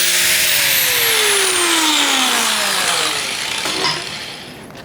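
Angle grinder with an abrasive disc grinding the coating off steel plate. About half a second in the motor is switched off; its whine falls steadily in pitch as the disc spins down, and the grinding noise fades out by about four seconds.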